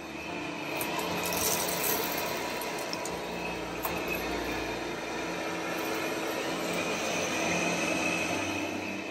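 Lydsto R1 robot vacuum running, a steady motor and brush hum with a faint high whine, swelling a little now and then as it moves.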